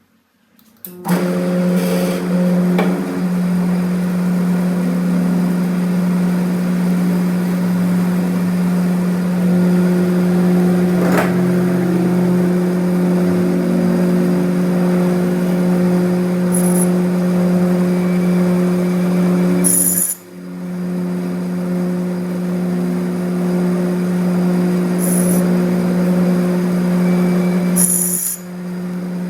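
A workshop machine's electric motor running with a steady hum, one sharp click about eleven seconds in. It cuts out briefly about twenty seconds in, starts again and stops near the end.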